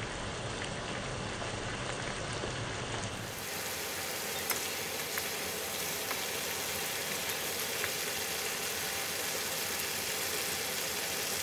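Beef and vegetable stir-fry sizzling and bubbling in sauce in a frying pan, a steady frying hiss, with a few light taps as wooden chopsticks stir it.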